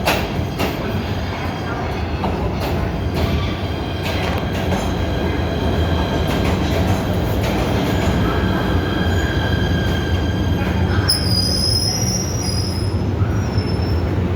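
PATH rapid-transit train running on the rails with a steady rumble and clicks over the rail joints in the first few seconds. A high wheel squeal sets in about eleven seconds in and lasts a couple of seconds.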